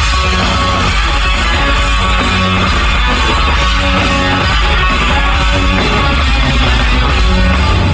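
Live rock band playing loud: a distorted electric guitar riff over bass and drums.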